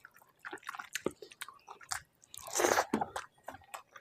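Close-miked chewing of a mouthful of rice and curry, with wet mouth clicks and smacks, and one louder, longer wet sound about two and a half seconds in.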